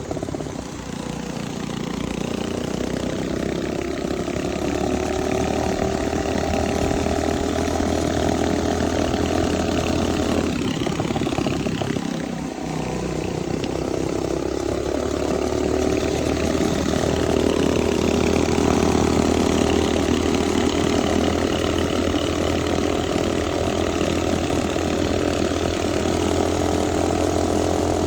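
Mini bike's small engine running under throttle. Its pitch climbs over the first few seconds, drops briefly about ten seconds in, then climbs again and holds steady.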